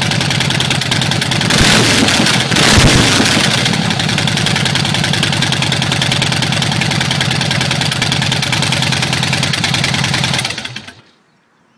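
2009 Harley-Davidson Night Train's V-twin, breathing through Vance & Hines Short Shots pipes and a heavy breather intake, idling with a lumpy beat. It is blipped louder twice about two to three seconds in, returns to idle, then shuts off near the end.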